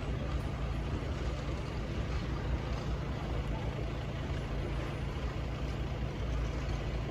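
Sydney Trains Waratah electric train running at the station platform: a steady low hum under an even rushing noise.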